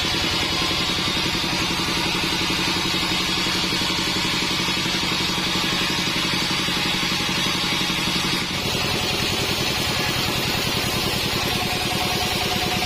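Modified 48 sawmill bandsaw running steadily with a machine hum. Its sound changes about eight and a half seconds in, and a steady whine joins near the end.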